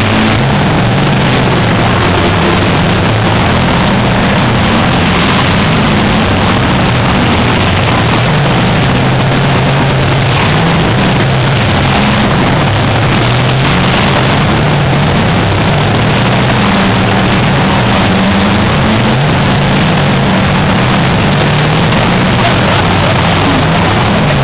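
Engines of several stock cars running hard together on a dirt track, loud and continuous, their pitch rising and falling as the drivers rev and lift.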